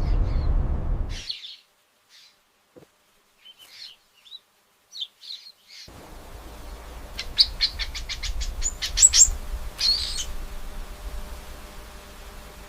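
Small bird chirping in short high calls. About halfway through it gives a quick run of chirps, about six a second, that climb in pitch. A low rumbling background in the first second stops suddenly.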